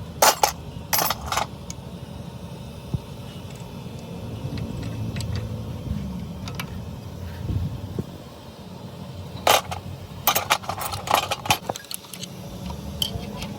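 Sharp metallic clinks and knocks, like tools striking or handling metal engine parts: a few in the first second and a half, then a quick cluster from about nine and a half seconds in. A steady low rumble runs underneath.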